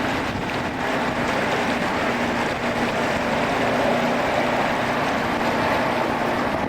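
Rail grinding machine at work on the track: a steady rushing, grinding noise over a low engine hum, swelling a little in the middle.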